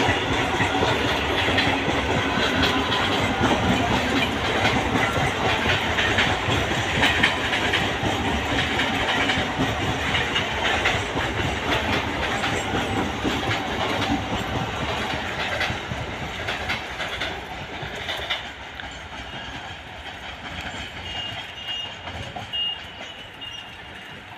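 Electric multiple-unit suburban train running past on the tracks, its wheels clattering rhythmically over the rail joints. About two-thirds of the way through the clatter fades steadily as the train moves off into the distance.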